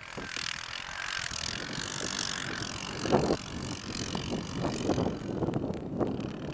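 ATV riding over rough, jolting ground, with wind noise on the microphone. Knocks and rattles of the machine bouncing come more often in the second half.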